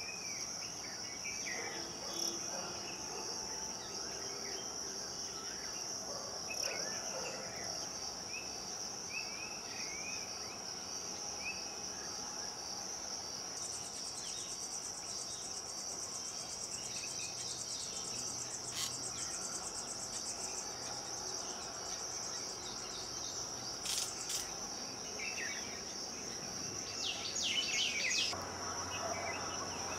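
Steady high-pitched insect drone, joined about halfway through for several seconds by a second, faster-pulsing insect trill, with short bird chirps scattered throughout.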